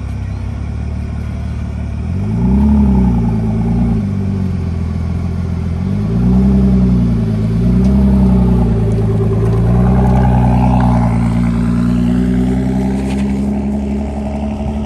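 Car engine idling, then revved in short blips: two rises and falls about two seconds in and two more around six to eight seconds. After that it settles into a steady, slightly raised idle.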